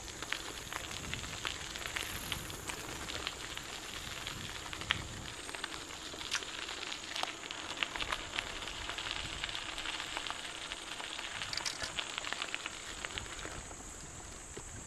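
Bicycle tyres rolling over a gritty gravel trail: a continuous crackle of small clicks and crunches.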